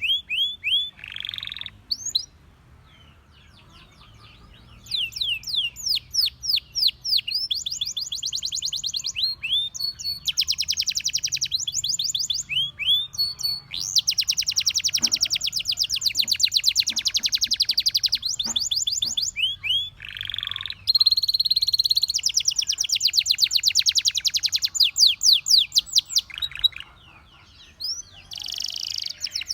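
Canary singing: long fast trills of rapidly repeated notes and short sweeping whistles, in phrases broken by a pause of a few seconds near the start and another near the end.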